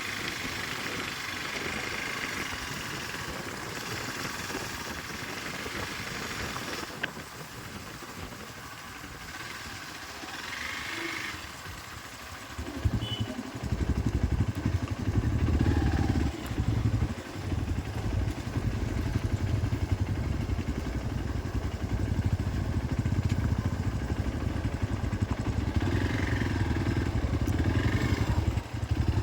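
Hero XPulse 200 4V's single-cylinder motorcycle engine starts a little under halfway through and keeps running loudly, its level dipping briefly now and then. Before it starts there is only a steady hiss.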